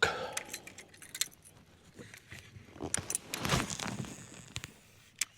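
Light metallic clicks and rattles of fishing gear, with a brief whoosh about three and a half seconds in.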